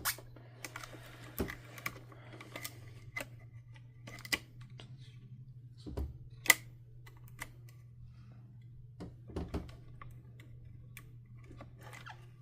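Irregular light clicks and taps of plastic vacuum-cleaner housing parts being handled during disassembly, with one sharper click about six and a half seconds in, over a steady low hum.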